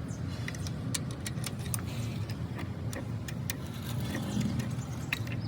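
A steady low machine drone, like an engine running, with irregular sharp metallic clicks and taps over it.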